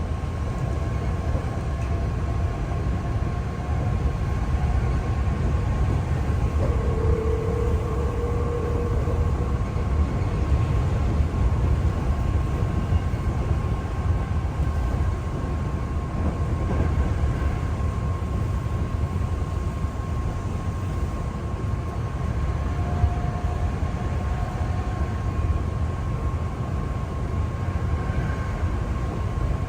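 Hankyu commuter train running between stations, heard from inside the carriage: a steady low rumble of wheels on the track with a faint constant high tone above it.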